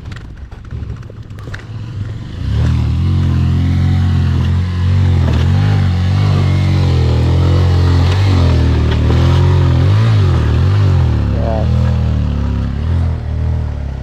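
Motorcycle engine revving hard and held at high revs under load on a rough off-road trail, starting about two and a half seconds in, its pitch wavering as the throttle is worked.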